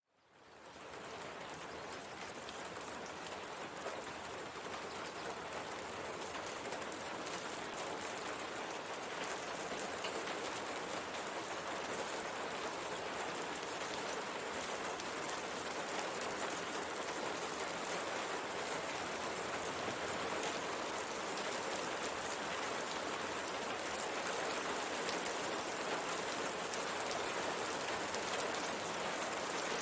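Steady rain falling on a window pane, fading in over the first second, with a dense patter of individual drops ticking against the glass.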